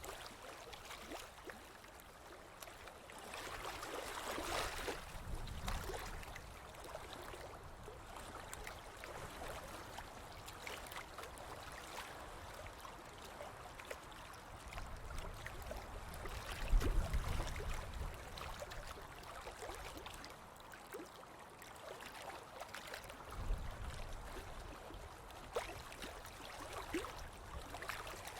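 Ocean waves washing onto a beach: a continuous wash full of small crackles, with one wave surging about four seconds in. Low rumbles come around the middle and again near the end.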